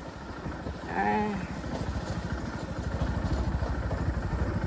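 A vehicle engine runs with a fast, even pulsing and grows steadily louder. A short vocal sound comes about a second in.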